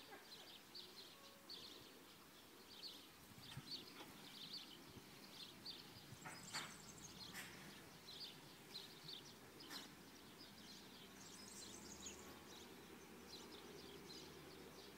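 Near-silent open-air ambience with small birds chirping repeatedly in short, high calls, two or three a second. A faint low drone rises slightly near the end.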